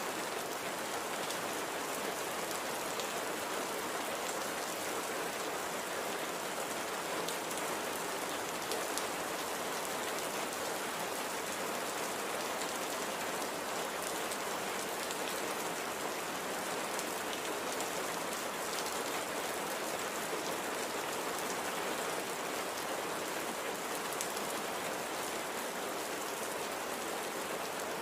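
Steady, gentle rain falling, an even hiss with scattered small drop ticks.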